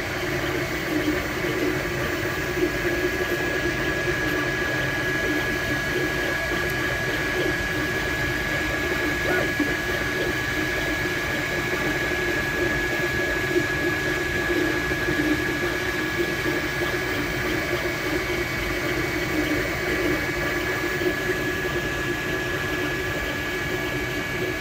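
MakerBot Replicator desktop 3D printer running a print: a steady mechanical whir with a fluttering low hum and a constant high whine.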